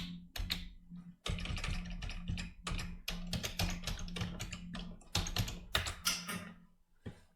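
Computer keyboard typing: rapid runs of keystroke clicks with short pauses, over a steady low hum, stopping about a second before the end.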